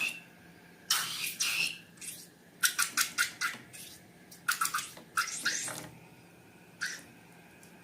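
Slime being squeezed and worked by hand: short squishes and runs of quick wet clicks and pops, in two clusters mid-way, with one last click near the end.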